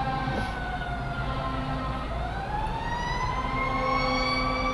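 Fire truck siren wailing: one slow cycle, its pitch falling for about two seconds and then rising again, heard from inside a following car over a low steady engine hum.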